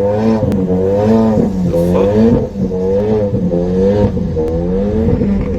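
A car engine revving up and down over and over, its pitch rising and falling in quick repeated swells.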